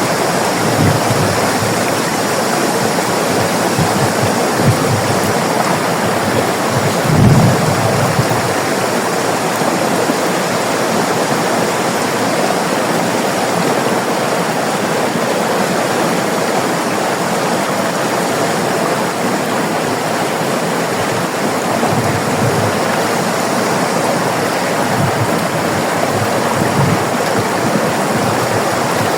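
River water running steadily over rocks, an even rushing flow with occasional low gurgling surges, the strongest about seven seconds in.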